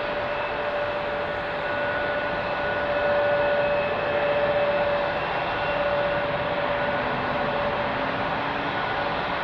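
Jet aircraft engines running with a steady noise and a thin whine over it, swelling a little a few seconds in.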